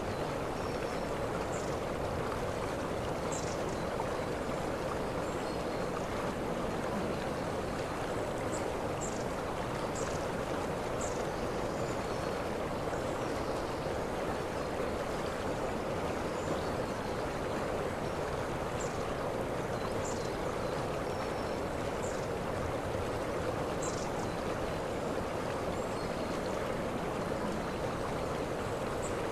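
Waterfall: water cascading in a steady, unbroken rush. Faint, short high-pitched notes come through it every second or two.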